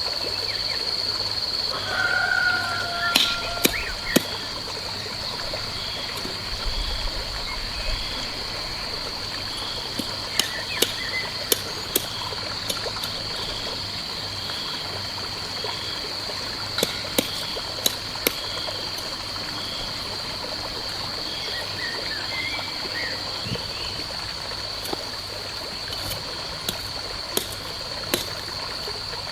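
Outdoor ambience of a trickle of running water, with a steady high insect drone and a chirp that pulses about once a second. Scattered sharp clicks and knocks stand out above it.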